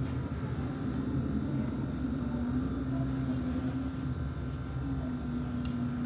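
Steady low droning hum with a held mid-low tone, like machinery or ventilation running in a room.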